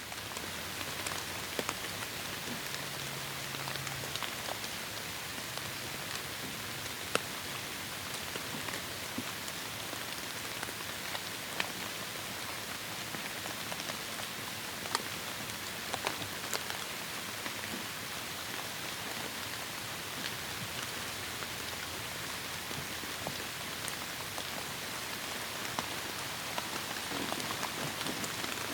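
Heavy rain falling steadily in a forest: a dense, even hiss with scattered sharper drop hits.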